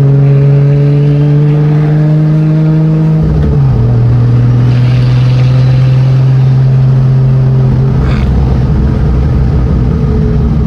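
A car engine held at raised revs, its note slowly climbing, then dropping in pitch about three and a half seconds in and running on at a lower, rougher note.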